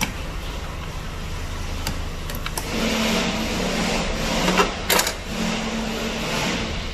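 Small clicks and scraping as a plastic electrical connector with a metal retaining clip is worked loose with a screwdriver, with a sharp click about five seconds in, over a steady low background hum.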